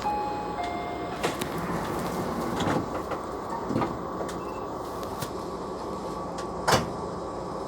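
Steady running noise inside a Japanese local commuter train car, with a few sharp knocks and clicks, the loudest near the end. A couple of brief electronic tones sound right at the start.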